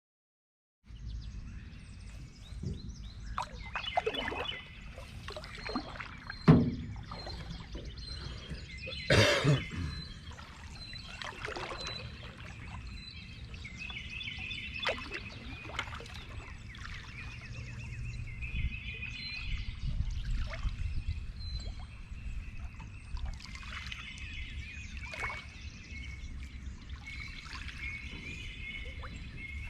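Canoe paddling on a creek: water trickling and splashing off the paddle, with a few knocks, the loudest about six and a half seconds in and a splashier one about nine seconds in. Birds sing short repeated phrases throughout over a steady low rumble. The sound starts about a second in.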